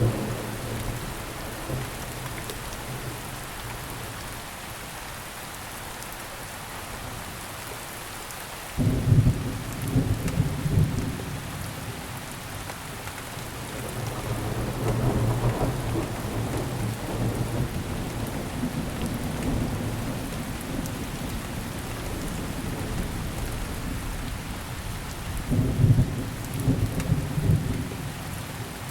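Steady rain falling, with low rolling thunder rumbling in three swells: a loud one about nine seconds in, a softer one around fifteen seconds, and another near the end.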